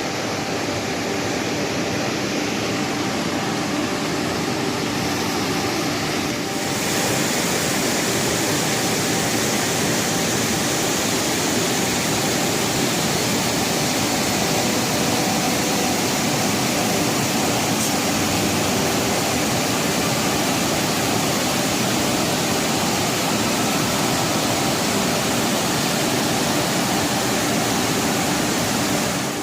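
Waterfall in heavy monsoon flow: a loud, steady rush of falling water. It turns brighter and a little louder about seven seconds in.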